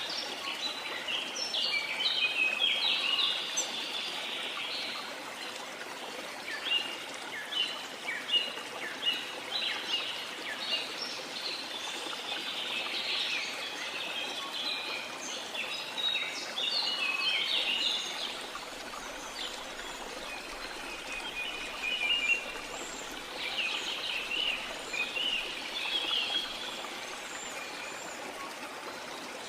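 Rainforest ambience: many birds chirping and calling in quick short notes, layered over a steady hiss of water.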